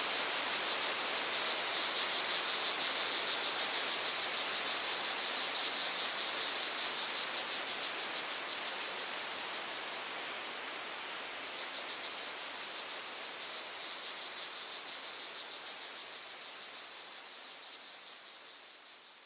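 Steady rushing water with a continuous high, rapidly pulsing cricket trill above it; the trill drops back around the middle and returns, and everything fades out near the end.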